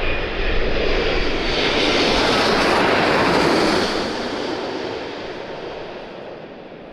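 Jet airliner passing low overhead on its landing approach. Its engine noise swells to a peak about two seconds in, then fades away as it goes past, with a faint high whine over the rush.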